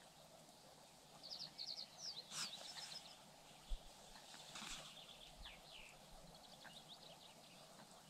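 Faint birdsong: quick runs of high chirping notes, starting about a second in and again around the middle, with a few brief soft knocks in between.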